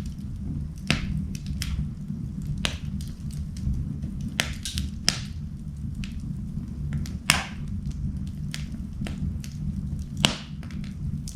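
Wood fire burning in a fireplace: a steady low rumble of flame with irregular crackles and sharp pops, three of them louder, about a second in, near the middle and near the end.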